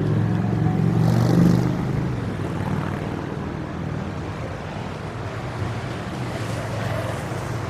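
A motor vehicle engine running close by, a low hum loudest in the first two seconds and then easing, over steady city traffic noise.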